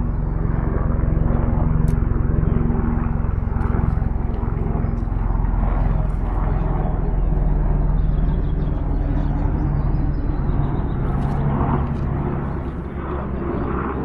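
A steady engine drone with a held pitch and a low rumble beneath it, easing off a little about twelve seconds in.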